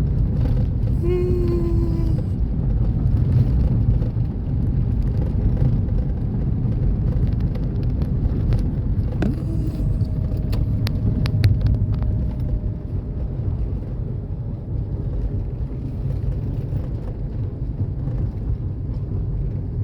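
A moving vehicle's steady low rumble, with a few faint clicks around the middle and a faint held tone in the second half.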